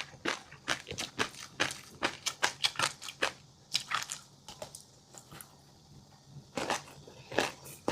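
Close-miked eating sounds of a mouthful of fish roe and crunchy chili-garlic seafood: quick crisp crunches and pops, dense at first, a short lull past the middle, then a few loud crunches near the end.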